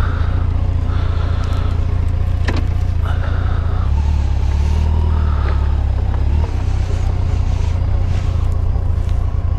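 Motorcycle engine running steadily, picked up by a helmet-mounted camera, with the engine note rising briefly about halfway through.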